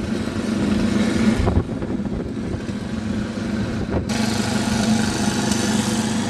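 A small engine running steadily at a constant pitch, with a brighter hiss coming in about four seconds in.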